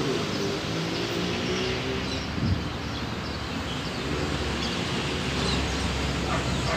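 Electric commuter train approaching from a distance, a low rumble building from about four seconds in, over steady street traffic and scattered bird chirps. A single sharp knock about two and a half seconds in.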